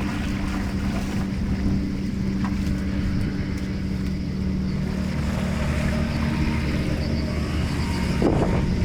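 Floodwater rushing steadily through a cleared drain grate, with a constant low hum under the noise and a brief knock near the end.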